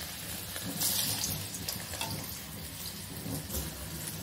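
Hot oil sizzling steadily as cabbage Manchurian balls deep-fry in a kadai, with a louder hiss about a second in.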